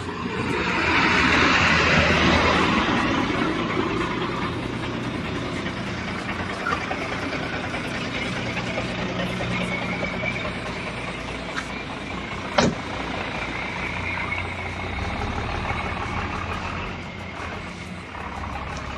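Street traffic noise: a large vehicle passes close by, loudest over the first few seconds, then a steady traffic hum. A single sharp knock comes about twelve and a half seconds in.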